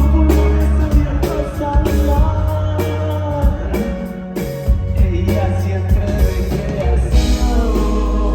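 Rock band playing, with guitar, drums and some singing.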